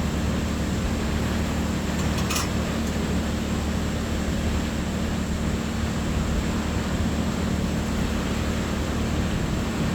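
A steady low mechanical hum over an even hiss, unchanging throughout, with a brief faint hiss about two and a half seconds in.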